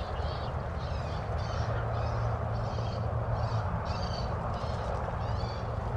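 Birds chirping: short high calls repeating about twice a second, over a steady low hum and a noisy background.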